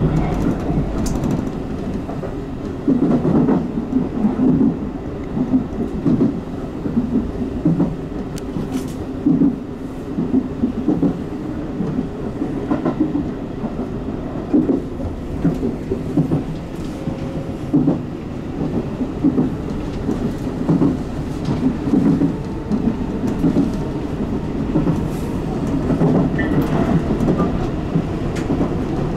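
Tobu 10030 series electric commuter train running along the line, heard inside the leading car: a steady rumble of the running gear with repeated clicks and knocks as the wheels pass over rail joints.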